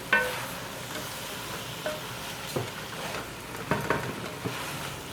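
Chicken and spice mixture sizzling in a cooking pan, with about six sharp metal clinks against the pot as the rice goes in and is stirred. The first clink, near the start, is the loudest and rings briefly.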